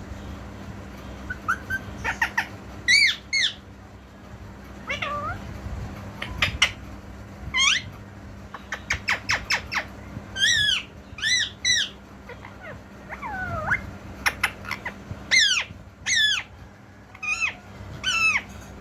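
Pet green parrot calling: a long run of short, high-pitched squawks and whistled notes, many sliding down in pitch, coming in quick clusters with short gaps between.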